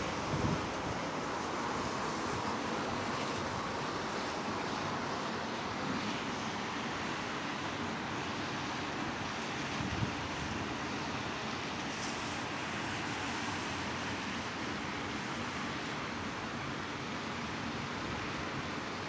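Heavy rain falling steadily, a continuous even hiss, with a few faint low thumps.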